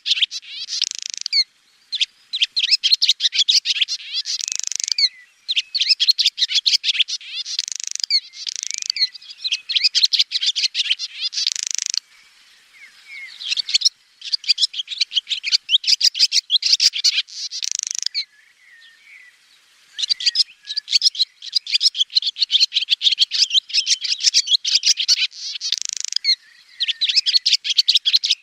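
Swallow singing: rapid, high twittering in phrases of one to three seconds, with brief pauses between them and two longer pauses partway through.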